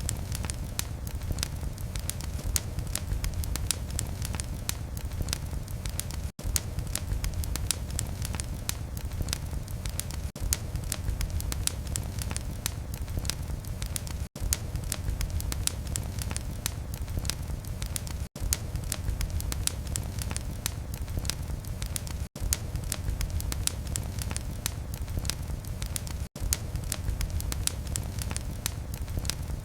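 Wood fire in a fireplace crackling steadily, dense sharp pops and snaps over a low rumble of flames. Brief gaps cut in about every four seconds.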